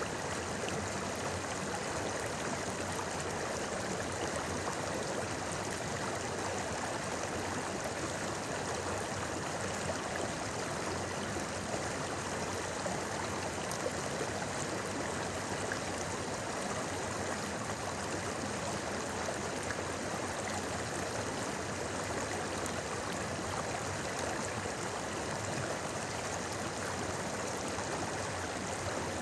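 Shallow river flowing over rocks: a steady babbling murmur of running water.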